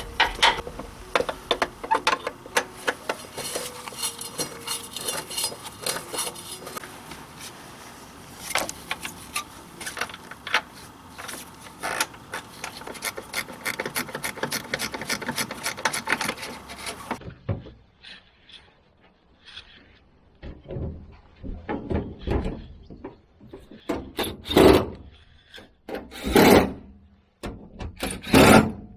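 Hand-tool work on a kei truck's engine bay: a fast run of sharp metallic clicks, then, after an abrupt change about two-thirds of the way through, slower rasping and scraping strokes with quiet between them.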